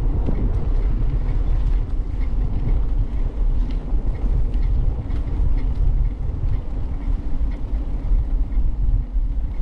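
Wind rumble buffeting the microphone of a camera on a moving bicycle, mixed with tyre and road noise from the ride. The sound is a loud, steady, low, fluttering roar.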